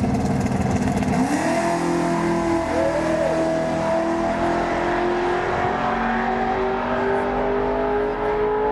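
Race car engine accelerating hard down a drag strip. Its pitch jumps up sharply about a second in, then climbs slowly and steadily through a long pull.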